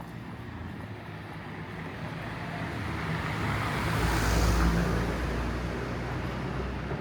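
A motor vehicle driving past on the street, its engine and tyre noise growing louder to a peak about four and a half seconds in, then fading away.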